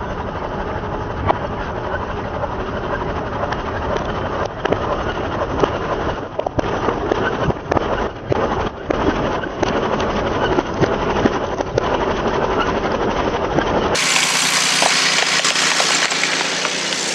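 Tractor running with many sharp cracks and crunches as objects break under its weight. The sound changes abruptly about fourteen seconds in.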